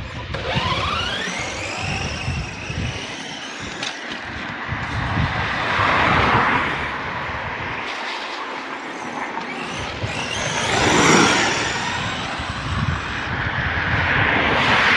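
Redcat Shredder 6S RC monster truck's electric motor whining as it is driven over muddy ground. The whine rises in pitch over the first few seconds, and then come three louder bursts of throttle spread through the rest.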